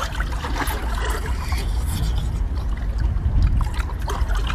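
Wet smacking and chewing as a man bites into a whole cooked octopus head, with scattered short crackles, over a steady low rumble of wind on the microphone.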